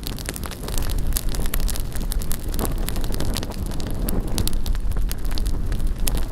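Bonfire burning, the wood crackling and popping many times a second over a steady low rumble of wind on the microphone.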